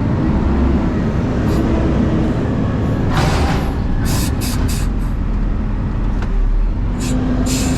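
Car driving, heard from inside the cabin: a steady low road and engine rumble, with several short hissing bursts about three, four and seven seconds in.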